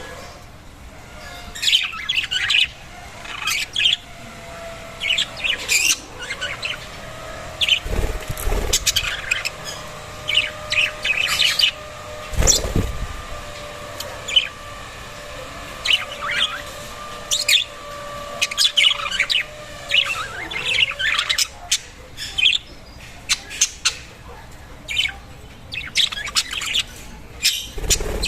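Several pet budgerigars chirping and chattering in quick, irregular short calls, with a couple of dull thumps about eight and twelve seconds in.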